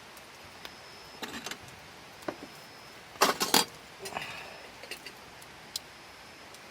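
Light clinks and knocks of camp tableware being handled during a meal, with a louder jangling cluster about three seconds in.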